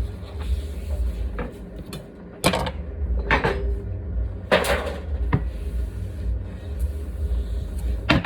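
Knocks and clunks of kitchen items being handled and set down on a counter, five or six separate hits over a steady low hum.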